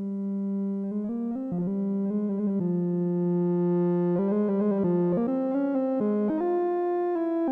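Behringer Odyssey analog synthesizer playing a melodic line: a note held for a couple of seconds near the middle, then a run of quick note changes, swelling in volume in the first second.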